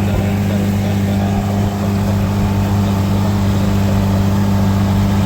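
Small outboard motor running steadily at constant throttle, a low even drone that holds its pitch.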